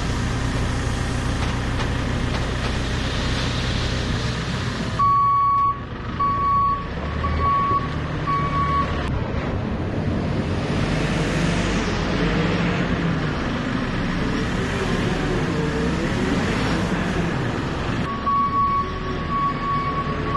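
Heavy vehicle's engine running while its reversing alarm beeps at a steady pitch, about four beeps in a row about five seconds in and again near the end; in between the engine note rises and falls as the machine moves.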